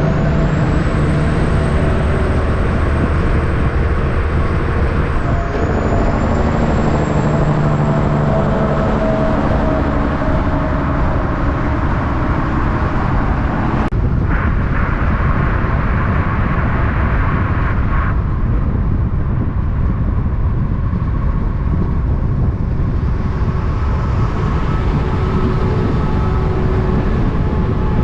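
Heavy truck engines running in steady traffic, loud throughout. A high whistle rises in the first second and drops about five seconds in. A sharp click comes about halfway through.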